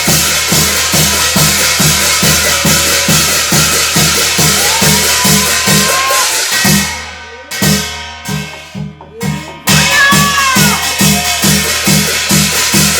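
Korean shamanic gut ritual music: a steady drum beat of about two to three strokes a second under a dense, bright high shimmer, with a few gliding melodic lines. The music drops out briefly just past the middle and comes back at full strength about three seconds later.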